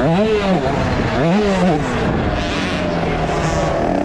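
Small two-stroke engine of a KTM 50 SX youth supercross bike, heard on board, revving up and dropping off twice as the throttle is worked, then holding a steady note through the rest.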